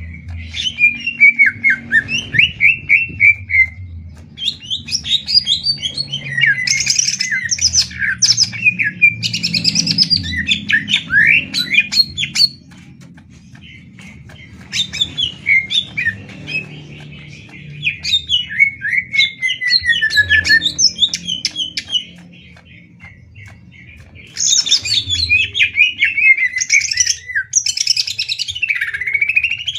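Caged green leafbirds (cucak ijo) singing in a duel: loud bursts of fast, sliding chirps and rapid trilled runs, a few seconds each, with brief pauses about a third and two thirds of the way through.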